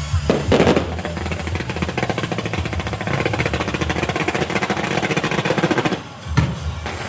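A string of firecrackers going off: a loud bang, then a rapid crackle of many sharp cracks for about five seconds that cuts off suddenly, followed by one more bang.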